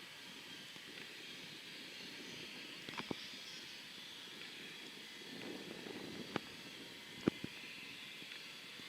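Distant jet aircraft engines running, a faint steady hiss and whine, broken by a few sharp clicks, the loudest about seven seconds in.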